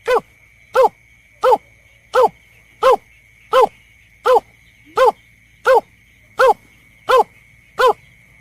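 Recorded bird-lure call for the bird known locally as berkik or belkek: one short arched note, repeated evenly about every 0.7 seconds, twelve times, with a faint steady high whine behind it.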